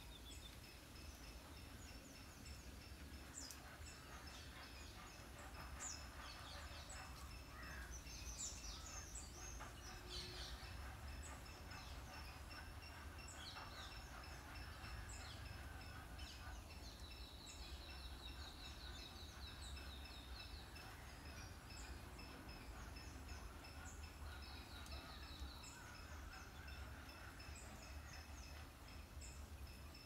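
Small birds chirping and calling in a scattered chorus, with a rapid trill of repeated notes about halfway through and again briefly later.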